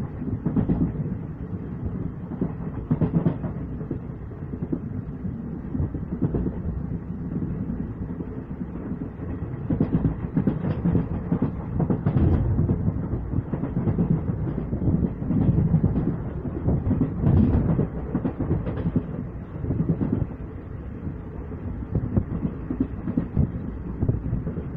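A passenger train running at speed, heard from a window seat: a steady low rumble of wheels on rail, with irregular clacks as the wheels pass over rail joints.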